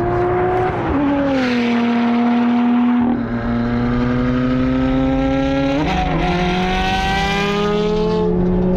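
Sports car engine under load on a race track. Its pitch drops at about a second in as it shifts, holds steady, then jumps up near six seconds and climbs before easing off near the end.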